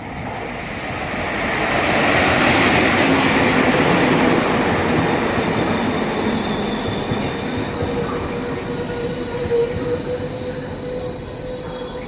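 Freight train rolling past on the rails, its noise building to a peak in the first few seconds. From about halfway a steady high-pitched squeal of wheels on rail joins it.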